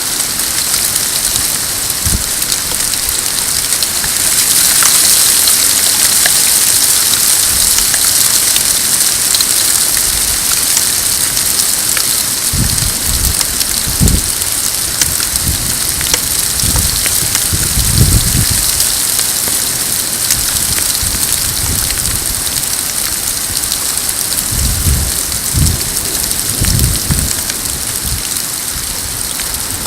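Hail and heavy rain pelting down in a steady hiss of many small sharp hits. The hiss grows louder about four seconds in. Low rolls of thunder rumble several times in the second half.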